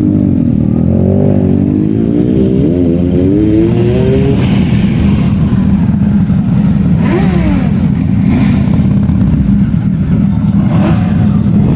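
Superbike engine held at high revs and revved hard, running loud throughout, its pitch wavering and climbing over the first few seconds, with another brief rev about seven seconds in.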